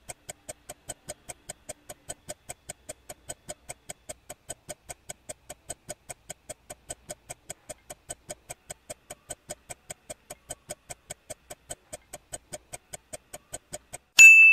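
Countdown-timer sound effect: a clock-like tick about four times a second, evenly spaced. Near the end a single bright chime rings out, the loudest sound, signalling that time is up.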